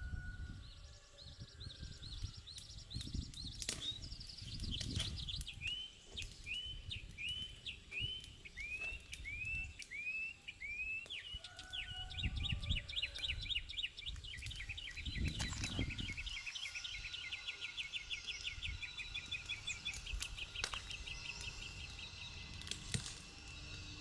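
A songbird singing a long series of short repeated whistled notes, about two a second, that turn into a fast trill about halfway through. Occasional low thumps and a few sharp knocks sound underneath.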